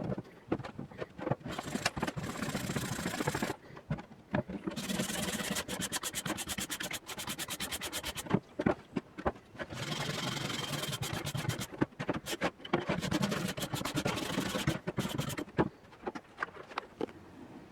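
Rusty hand-forged iron pick/hoe head being scraped or scrubbed by hand, in spells of quick, even back-and-forth strokes, with scattered clicks and knocks between the spells.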